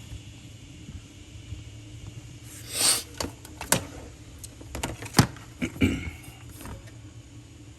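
A worn pulley bearing on a Chevrolet Suburban's belt drive, spun by hand without the belt: a short rough rasp about three seconds in. It is followed by several sharp metallic clicks and knocks from the parts being handled. The rasp is the bearing noise, which would be far louder with belt pressure on the pulley.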